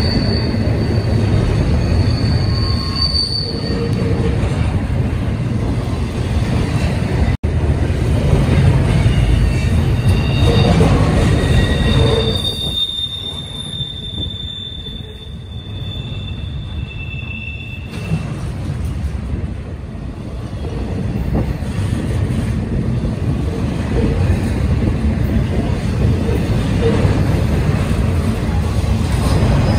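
Union Pacific double-stack intermodal train's loaded well cars rolling past: a steady rumble of steel wheels on rail, with high, drawn-out squeals from the wheels coming and going. About halfway through the rumble eases for several seconds while one long squeal holds, then the rumble builds again.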